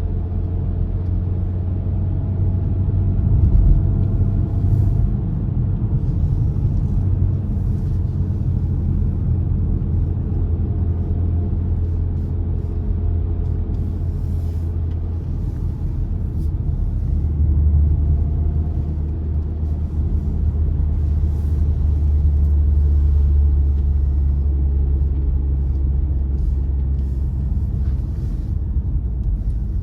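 Car driving along, with a steady low rumble of engine and tyres on the road. Faint engine tones drift slowly down and back up in pitch as the speed changes.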